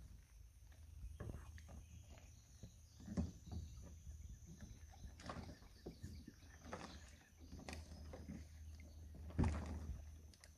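Irregular knocks and splashes from a kayak on the water, over a steady low wind rumble, with louder knocks about three seconds in and near the end.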